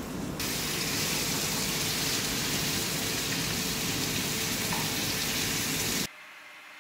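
Small pieces of marinated chicken sizzling as they fry in a pan: a steady sizzle that begins just after the start and cuts off suddenly near the end.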